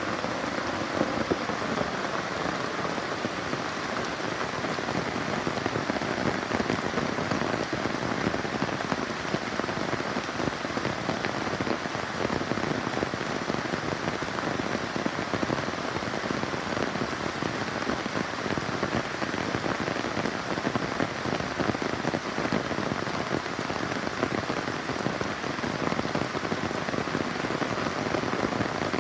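Steady rain falling, with many drops hitting a surface at an even, unchanging level.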